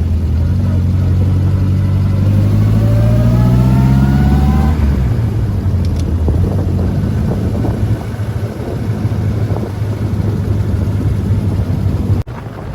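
Morgan Plus 4's four-cylinder engine accelerating, its note rising steadily for about five seconds. The revs then fall away and the engine runs on at a lower, rougher note.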